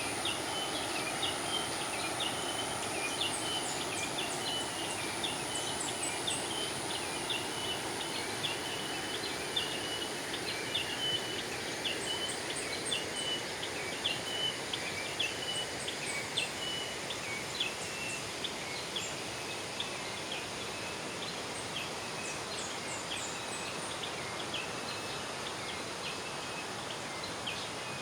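River water flowing steadily, with small birds chirping over it in quick, short repeated calls.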